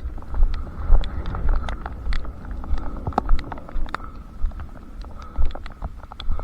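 A runner's footsteps landing about twice a second, with wind rumbling on the microphone and many scattered sharp ticks.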